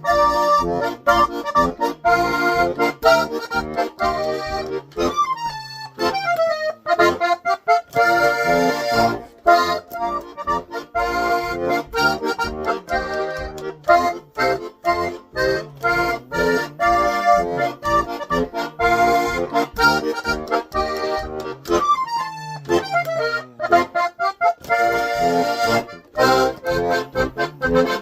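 Accordion playing a lively polka, with a bouncing oom-pah bass under the melody and quick runs that climb and fall a few times.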